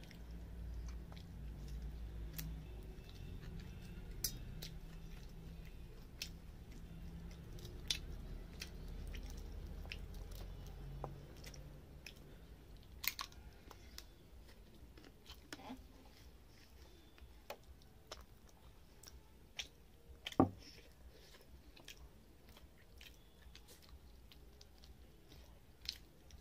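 Close-miked chewing and wet mouth smacks of a man eating rice and fried fish with gravy by hand, with scattered short clicks. There is one louder sharp click about twenty seconds in.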